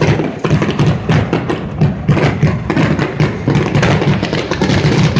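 A loud, rapid barrage of fireworks bursting overhead: a dense run of booms and crackles, many reports a second, with no break.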